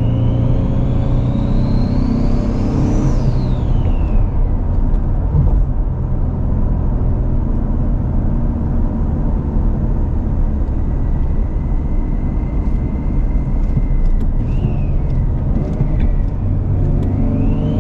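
Ford Mustang's Cyclone V6 engine accelerating, rising in pitch and dropping at a gear change about three seconds in, then running steadily and rising again near the end. The car runs on turbo manifolds and exhaust with the turbos not feeding the intake, so it drives unboosted on the stock tune.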